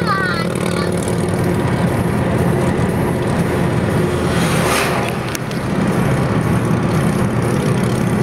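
Harley-Davidson V-twin motorcycle engines running steadily, with a brief rushing swell about four and a half seconds in.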